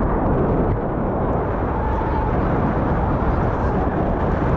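Steady wind rushing and buffeting over the microphone of a parasail rider high above the sea. The noise is heaviest in the low end.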